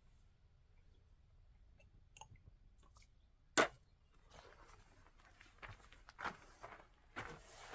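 A single sharp knock about three and a half seconds in, followed by a run of irregular gritty scraping or crunching strokes.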